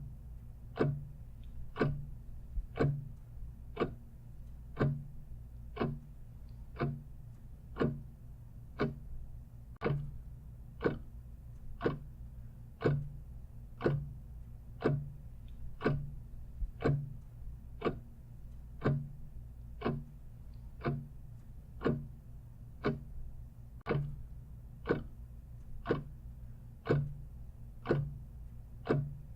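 Clock ticking steadily at about one tick a second, over a low steady hum.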